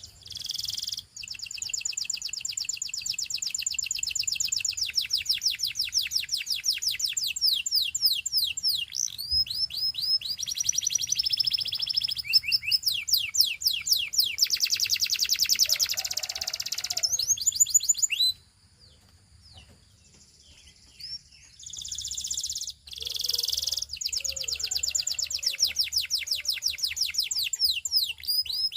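Canary singing a long, high-pitched song of fast trills and rapidly repeated sweeping notes. The song breaks off for about three seconds about two-thirds through, then resumes with more fast trills.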